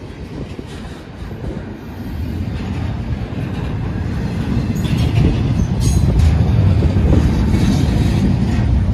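Double-stack container train's well cars rolling past close by: a steady rumble of steel wheels on rail that grows louder from about two seconds in, with a few sharp clicks around five and six seconds in.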